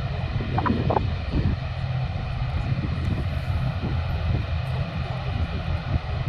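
Aircraft engines at an airport, a steady low rumble.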